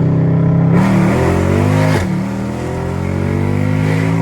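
Loud naturally aspirated car engine accelerating hard. The revs climb, drop sharply at an upshift about two seconds in, then climb again through the next gear, with another shift right at the end.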